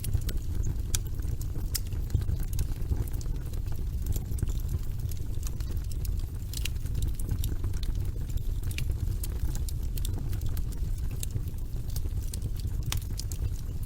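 Logs burning in a fireplace: a steady low rumble of the flames with irregular sharp crackles and pops from the wood.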